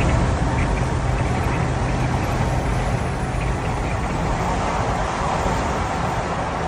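Diesel semi-truck engine running with a steady low drone and road noise, holding an even level throughout.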